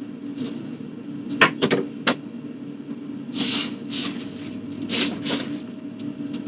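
Items being handled in a refrigerator during organizing: a quick cluster of knocks about a second and a half in, then a few short sliding, rubbing sounds, over a steady low hum.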